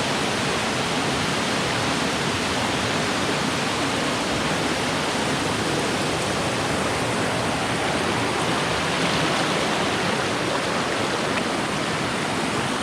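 Water pouring down a small waterfall: a steady, even rush of falling water.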